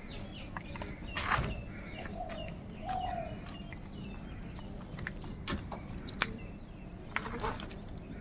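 Crows calling: a few short caws scattered over a steady low background rumble, with small bird chirps in between.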